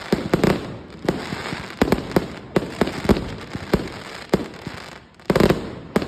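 Fireworks display: a rapid, irregular run of sharp bangs with crackling between them, and a louder, denser burst about five seconds in.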